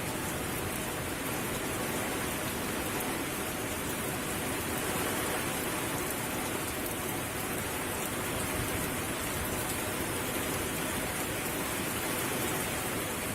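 Heavy rain with strong wind: a steady, even hiss that does not let up.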